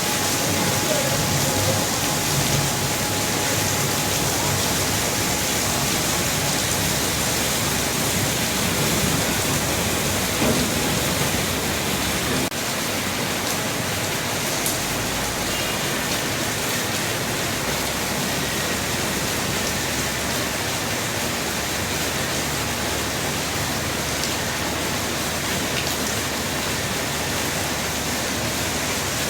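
Heavy rain falling, a steady dense hiss. It gets slightly quieter and less deep about twelve seconds in.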